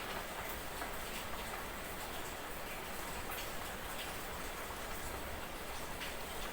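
Light night drizzle: a steady hiss of fine rain with scattered drops ticking on a surface.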